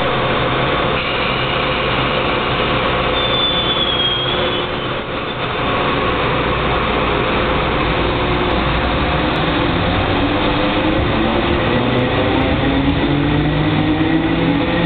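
KCR MLR electric multiple-unit train departing a station: steady running and rail noise, with the motor tones rising in pitch from about ten seconds in as it gathers speed. A brief high tone sounds about three seconds in.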